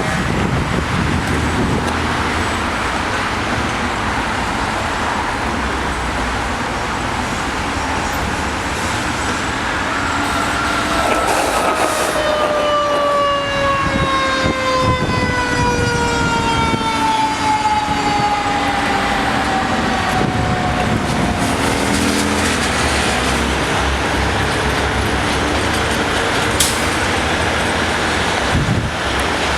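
Steady freeway traffic noise. About ten seconds in, a siren's tone slides slowly downward in pitch for about ten seconds as it winds down.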